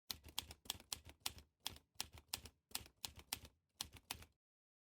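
A run of about fifteen sharp clacks in an uneven, typing-like rhythm, stopping suddenly near the end.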